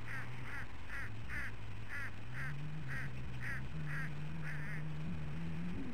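A bird calling a steady series of short, repeated notes, about two to three a second, over a low hum that steps up in pitch twice.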